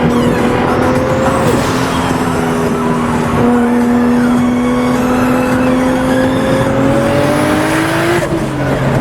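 Straight-piped, turbocharged Toyota Supra engine running under way, its pitch climbing slowly with sudden drops about a second and a half in and again two seconds later, like gear changes, then climbing again and falling away near the end.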